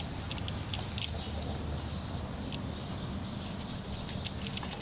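Light, irregular metallic clicks and ticks from the engine's oil pump and gears being turned to test the pump, over a steady low hum.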